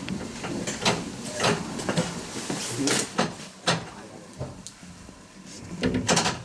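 Train running slowly with irregular clanks and knocks, a cluster of louder knocks about six seconds in.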